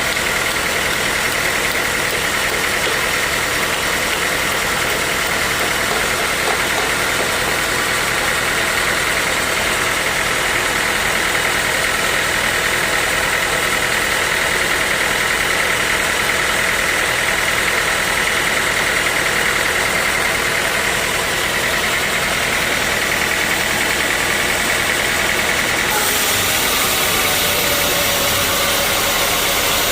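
Sawmill machinery running steadily: a dense mechanical noise with a steady high whine, which changes slightly near the end.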